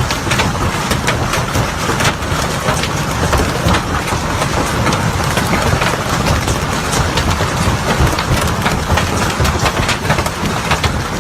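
Heavy hail pelting down: a dense, steady clatter of hailstones striking hard surfaces, over a continuous low rumble.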